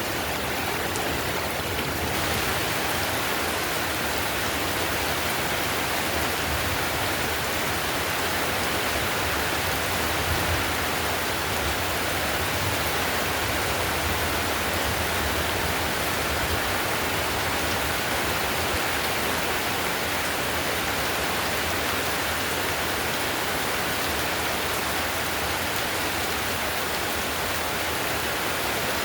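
Heavy rain drumming steadily on a tiled roof, a dense, even hiss of countless drops.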